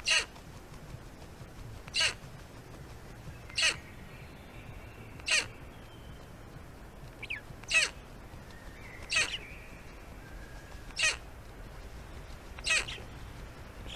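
A bird's short, harsh rasping call, repeated eight times, about every two seconds.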